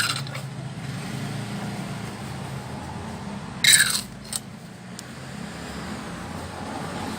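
A short ringing clink about three and a half seconds in, followed by a faint click, over a steady low hum.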